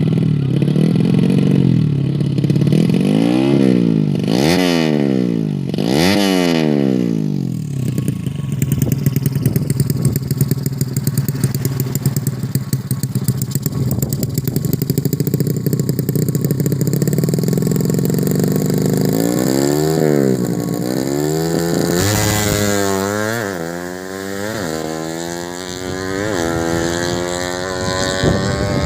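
A 115cc underbone drag-bike engine being blipped on the throttle during tuning. It revs up and drops back several times, settles to a steady idle for about ten seconds, then gives a quick run of rising blips near the end.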